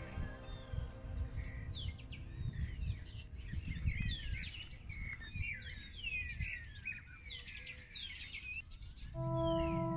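Several small birds chirping and twittering in quick, overlapping rising and falling whistles, over a low rumble. About nine seconds in, a sustained ringing musical tone begins.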